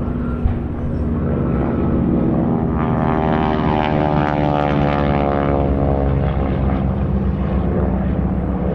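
Propeller-driven airplane flying past low, its piston engine drone swelling to its loudest a few seconds in and then falling in pitch as it passes and moves away.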